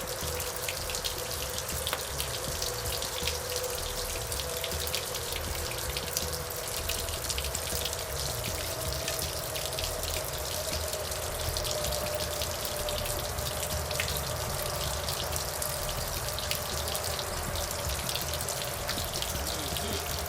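Steady splashing and trickling of running water, with a faint hum underneath.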